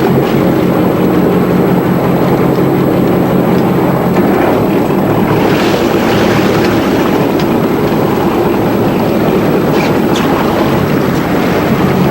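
Fishing boat's engine running steadily, a low even drone, with wind and water noise over it.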